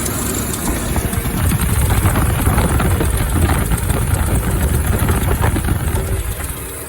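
Car engine running with a busy mechanical clatter of rapid ticks over a low rumble, growing a little louder partway through.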